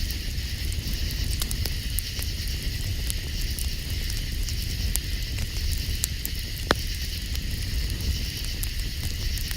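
Campfire crackling with scattered pops, one sharper pop about two-thirds of the way through, over a low rumble and a steady chorus of night insects.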